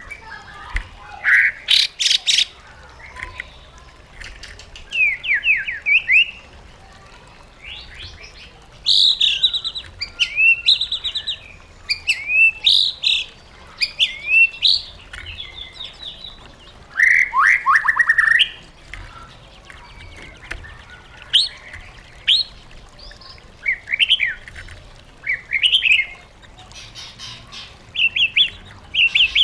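White-rumped shama singing: a varied song of loud whistled phrases, quick sliding notes and rapid trills, delivered in short bursts separated by brief pauses.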